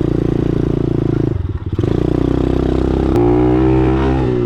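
Single-cylinder dirt bike engine running at low speed. It dips briefly, then revs up with a rising note about three seconds in.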